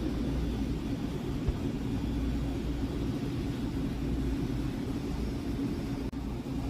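A steady low rumble with a constant hum, from background machinery, running evenly and dropping out for an instant near the end.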